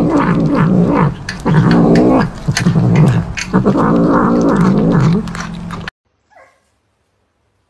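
Domestic cat growling in long, wavering yowls while biting and chewing meat off a skewer, with short chewing clicks. The sound cuts off abruptly about six seconds in, leaving near silence and one faint short cry.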